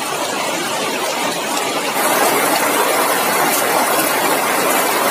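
Heavy rain pouring onto puddles and flooded ground, a steady hiss that gets louder about two seconds in.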